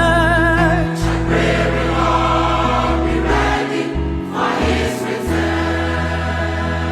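Choir singing a gospel song in long held notes over a steady bass accompaniment.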